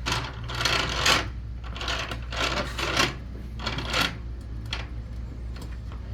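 Hand-cranked rope-making machine being turned, its gears and hooks rattling in bursts about once a second as the strands twist. The bursts grow fainter after about four seconds.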